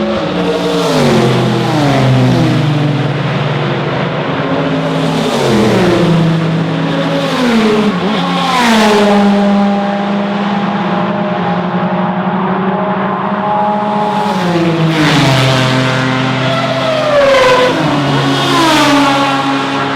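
Historic race cars passing one after another at speed. Each engine note drops sharply in pitch with a brief rush of noise as a car goes by, then hangs on at a lower pitch as it pulls away.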